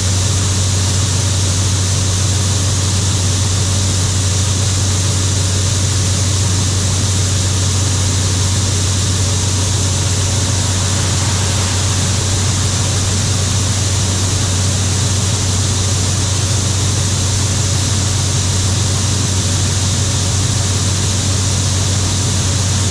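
International Harvester 1440 combine running steadily while harvesting soybeans: a constant deep engine drone under an even hiss from the machinery.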